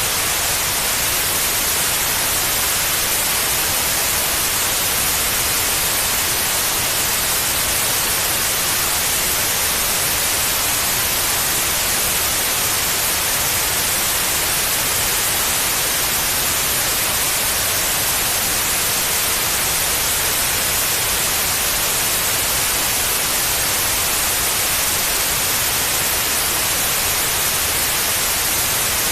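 Steady white noise: an even, unchanging hiss with no pattern or breaks, played as a sleep aid for babies.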